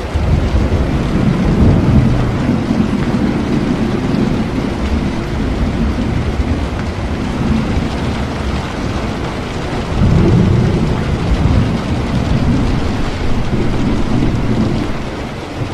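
Steady rain with rolling thunder: a long low rumble swells in right at the start and peaks about two seconds in, and a second rumble builds about ten seconds in, fading near the end.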